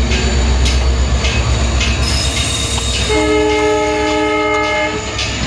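A train running at speed, with a heavy rumble and wheels clattering over the rail joints. About three seconds in, a train horn sounds one steady blast lasting about two seconds.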